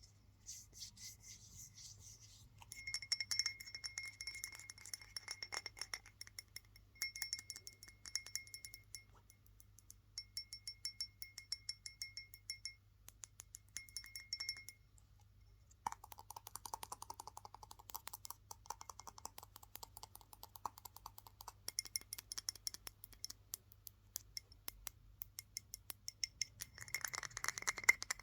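Fast, aggressive tapping on a hard object that rings with a clear high tone, in bursts of a few seconds. In the middle comes a stretch of rapid duller scratching without the ring, and then the ringing tapping returns and grows louder near the end.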